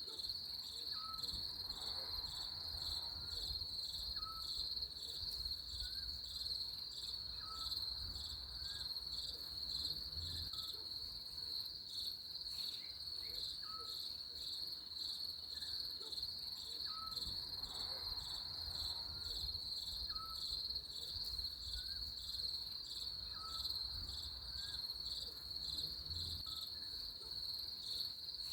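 Steady, high-pitched chorus of crickets trilling with a fine pulsing texture. Faint short chirps sound about once a second at a lower pitch.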